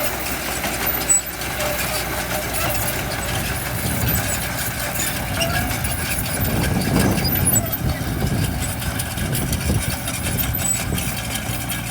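Diesel engines of heavy earthmoving equipment running steadily, with a short knock about a second in and the engine noise swelling louder around seven seconds in.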